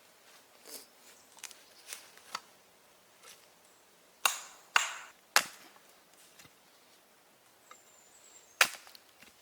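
Wood being chopped by hand: a few light taps, then three sharp strikes about half a second apart, and one more strike near the end.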